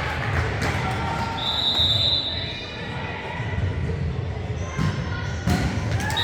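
Game sounds in a large hall: a steady low rumble of crowd and hall noise with distant voices. A short high tone comes about a second and a half in, and sharp knocks come near the end.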